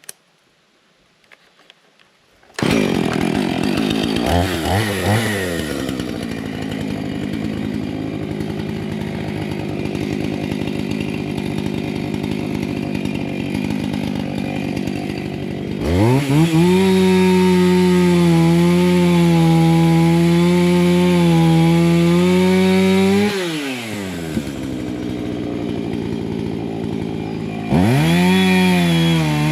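A two-stroke chainsaw comes in suddenly after a couple of quiet seconds and runs at a lower speed. About halfway through it is revved up to full speed and held there for about seven seconds, then drops back, and it revs up again near the end.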